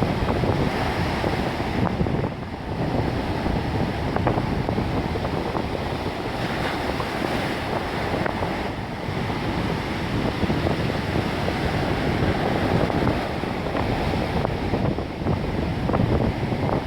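Heavy ocean surf breaking and washing on a beach, a continuous rushing roar, with wind buffeting the microphone.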